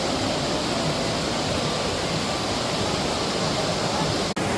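Steady rush of falling water from a waterfall, with a momentary dropout near the end.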